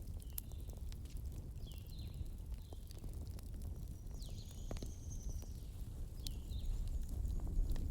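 Bonfire burning: a steady low rumble with scattered crackles and pops of burning wood, and a few short high chirps over it.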